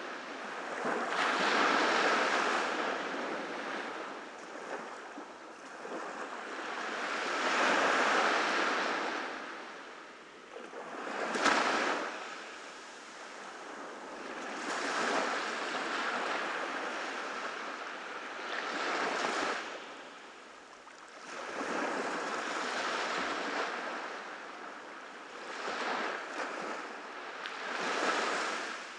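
Ocean surf breaking on a beach, each wave swelling and washing out every three to four seconds, with one sharper crash about eleven seconds in.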